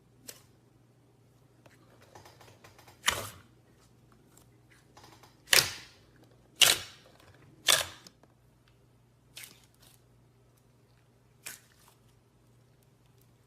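About seven sharp pops at uneven intervals, each with a short tail, the loudest three in the middle, over a faint steady low hum.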